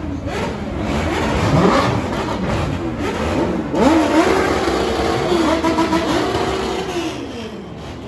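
Car engines revving repeatedly, their pitch rising and falling. About four seconds in, one engine revs up and is held at a steady high rev for about three seconds before dropping back.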